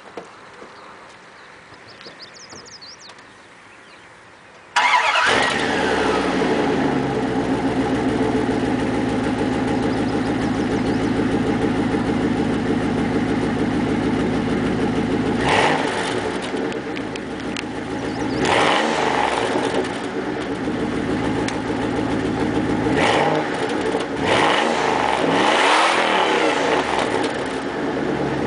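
A 1995 Dodge Dakota's 318 (5.2-litre) V8 starts suddenly about five seconds in and idles through a single-chamber Flowsound dual exhaust, then is revved up and let fall back about five times.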